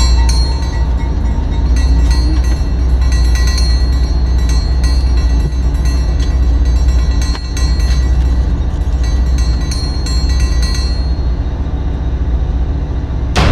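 Freight train running, heard on board: a heavy steady rumble with many short clicks and rattles scattered through it.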